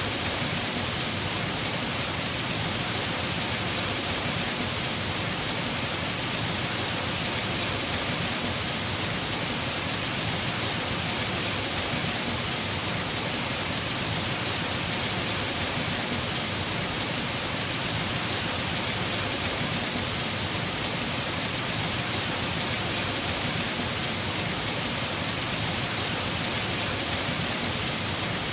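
Heavy rain falling steadily on a house roof, an even hiss of drops with no breaks.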